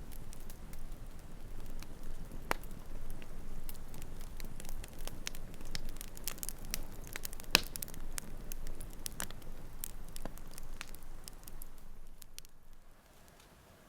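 Wood campfire crackling and popping irregularly over a low rush of flame, with one sharp loud pop about halfway through. The sound drops away abruptly near the end.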